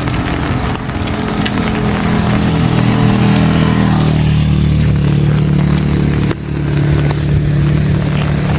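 A motor vehicle's engine running steadily, with a low hum that swells in the first few seconds and briefly cuts out about six seconds in, over the steady hiss of heavy rain.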